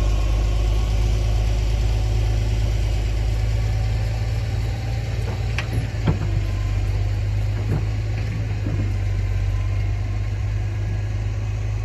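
An engine idling steadily with a low, even hum, and a few short sharp clicks about halfway through.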